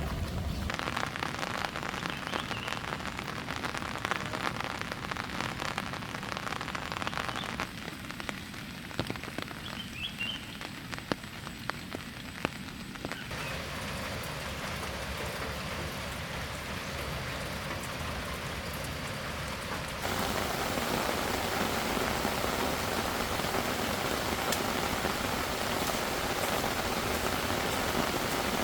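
Heavy rain falling steadily, a constant wash of drops that jumps louder about twenty seconds in.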